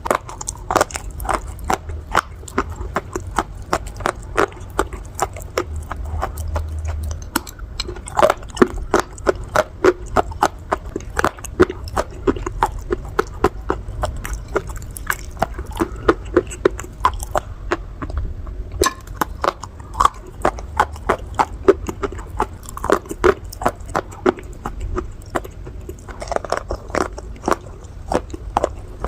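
Pieces of baked clay pot being bitten and chewed close to the microphone: a dense run of sharp crunches and crackles, several a second.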